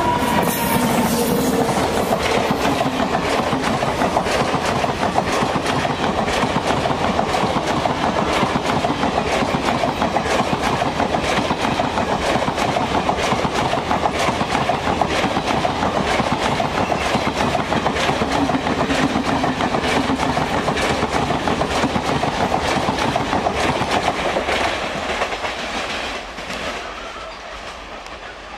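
Indian Railways passenger train hauled by a WAP 7 electric locomotive running past close by, its coach wheels clattering steadily over the rail joints. The clatter fades over the last few seconds as the end of the train draws away.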